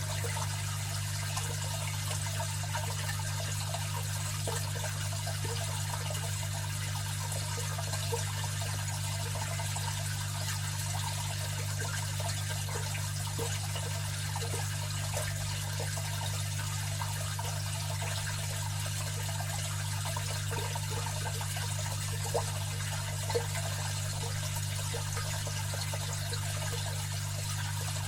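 Aquarium filter running: water trickling and splashing steadily over a constant low hum from the pump motor, with two slightly louder splashes near the end.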